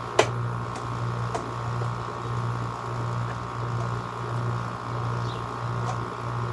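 Window air conditioner running on high fan, its compressor and fan motor humming steadily. A single sharp click sounds just after the start, with a few faint ticks later.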